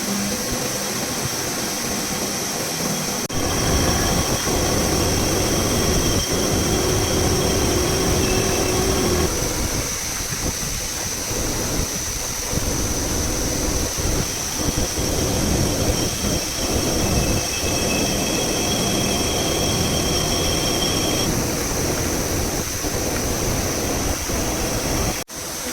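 CNC duplex milling machine cutting a steel block: a steady rough milling noise with a high, steady squeal over it. The sound steps up louder about three seconds in and drops out for a moment near the end.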